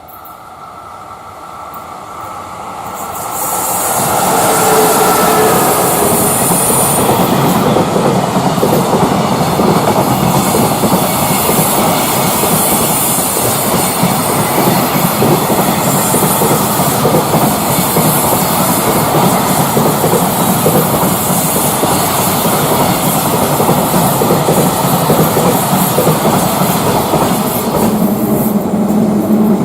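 Freight train passing close by. The electric locomotive comes up over the first few seconds with a falling whine, then a long string of container wagons rattles steadily past over the rail joints.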